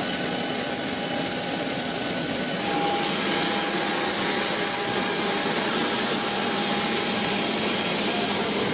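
Aircraft turbine engine running steadily: a loud, even rush with a high whine that jumps higher about two and a half seconds in.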